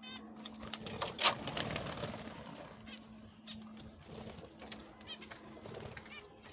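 Birds calling in short, warbling chirps, with one sharp knock about a second in.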